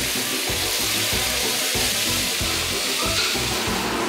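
Food frying in a hot pan, a steady sizzle, under background music.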